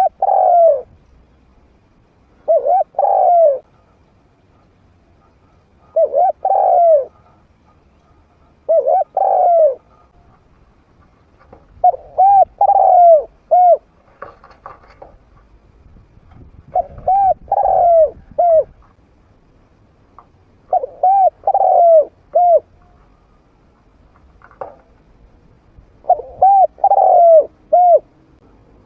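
A trained spotted dove cooing: about eight phrases, each a quick run of two to four arched coos, repeated every three to four seconds with short pauses between. It is a medium-pitched captive bird's call, used as a decoy to draw wild doves.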